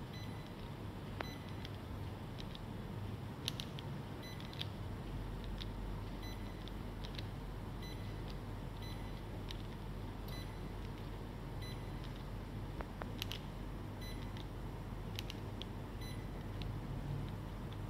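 Panasonic CS-KC7KKJ mini split air conditioner running with a steady hum; a deeper low hum comes in about four seconds in, with scattered faint ticks and brief high tones over it.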